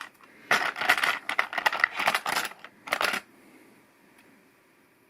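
Small plastic LEGO Technic pieces clattering and clicking as they are handled, in a rapid run of light knocks for about three seconds that stops abruptly.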